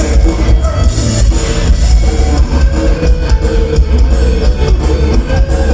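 A live band playing loudly through a PA, with guitar, drums and heavy bass.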